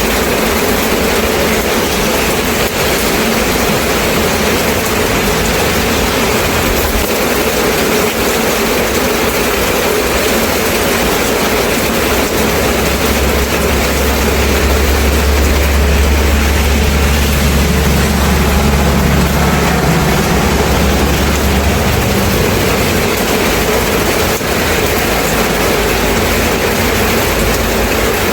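Steady rain falling, an even hiss. A low rumble joins it about twelve seconds in and fades out about ten seconds later.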